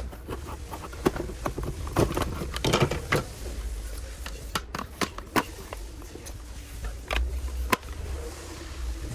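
Irregular sharp clicks, taps and short scrapes of hand work on small parts, over a steady low hum.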